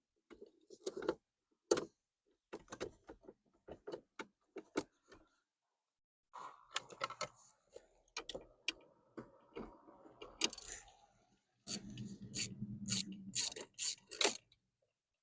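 Irregular clicks, taps and rattles of plastic and metal parts being handled and worked into a car's steering column, with a denser run of rattling near the end.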